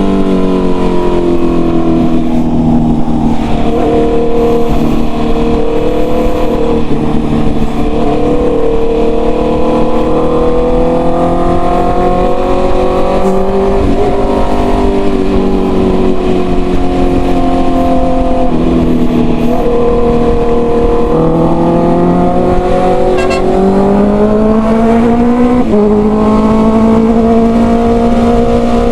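Honda CB650R inline-four with a full-system aftermarket exhaust, being ridden: the engine note climbs and falls with the throttle, with several sudden steps in pitch as the rider shifts gears.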